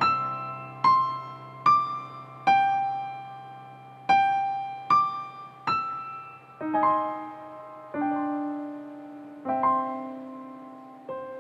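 Slow piano music: a melody of single notes struck about once a second, each ringing out and fading.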